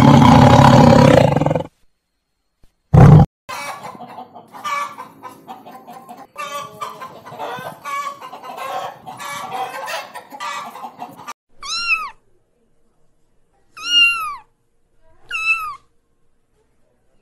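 A lion roaring at the start, then a flock of hens clucking for several seconds, then a domestic cat meowing three times, each meow rising and then falling in pitch.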